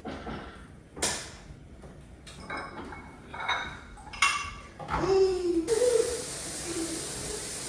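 Dishes and cutlery clinking and knocking: several separate clinks, some with a short ring. About five seconds in, a voice starts over it.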